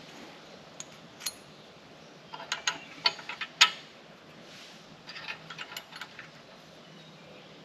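Metal-on-metal clicks and clinks from hand work on the loader bracket's bolts and nuts: a scattered run of sharp clicks, with a louder clank a little past the middle.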